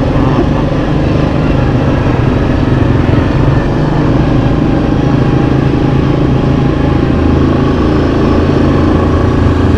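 Yamaha Kodiak 700 ATV's single-cylinder four-stroke engine running at a steady pace while riding.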